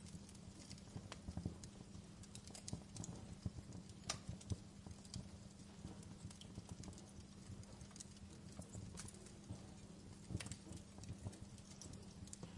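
Wood fire in a fireplace crackling, with irregular sharp pops, a few of them louder, over a low steady hum.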